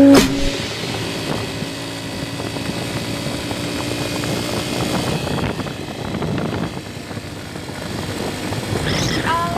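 Motorcycle engine running with wind rush while riding. Music starts again near the end.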